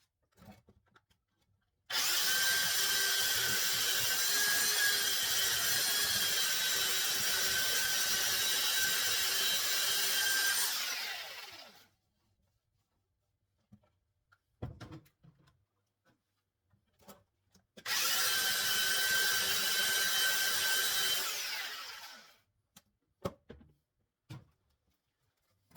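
Electric hand planer running over boards twice, first for about nine seconds and then for about four, with a steady whine. Each time the motor winds down in pitch after it is switched off. Short knocks from handling the boards come between and after the runs.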